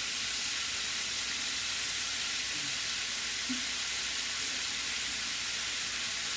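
Chicken pieces frying in a pan, a steady even sizzle.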